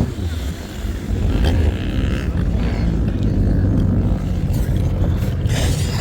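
Heavy motorcycle engines running with a deep, steady rumble, with a couple of short sharper bursts of noise, one about a second and a half in and one near the end.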